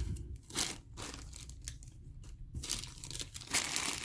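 Plastic bags of miniatures crinkling and rustling as they are handled, in several short bursts, the loudest near the end.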